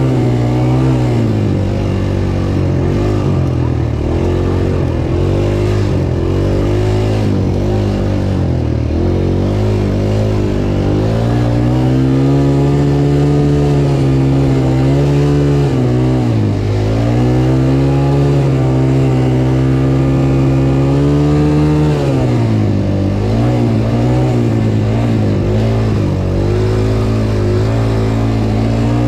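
Dirt bike engine being ridden under load, the engine note rising and falling as the throttle is opened and rolled off, with dips about every five seconds.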